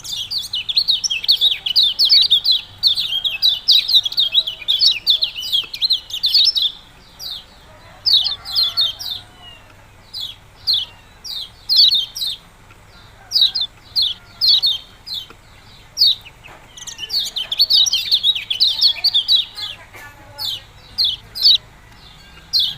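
A kecial kuning songbird calling with a long series of sharp, high 'ciak-ciak' chirps. The chirps come in quick dense runs for the first several seconds and again around two-thirds of the way through, and are spaced out with short pauses in between.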